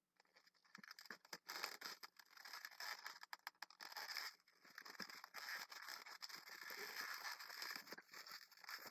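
Latex 260 twisting balloons being handled and twisted: faint rubbing and scraping with many small irregular clicks.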